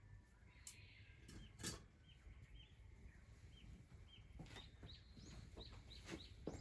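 A small bird calling faintly outdoors: a run of short, quick chirps repeated about twice a second, with scattered sharp clicks, most of them in the second half.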